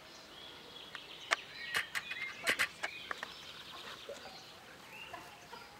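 Birds calling, short chirps and a quick trill, with several sharp clicks clustered in the middle.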